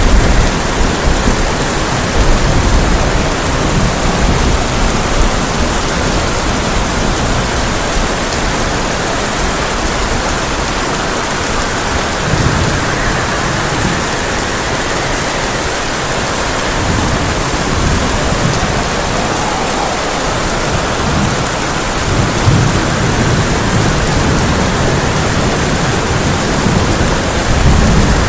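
Heavy rain drumming steadily on a tin roof, with low rolls of thunder rumbling several times: near the start, around the middle and again near the end.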